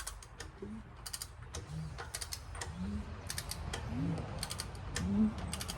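A ratchet wrench clicking in repeated strokes, about one a second, with a short low creak on each pull, as a big-block Mopar 400 V8 is turned over by hand to check its valves for a stuck valve.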